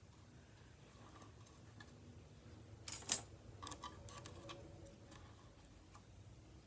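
Faint, scattered small clicks and taps of die-cut cardstock pieces and small craft tools being handled on a work table, the sharpest click about three seconds in, followed by a few lighter ones.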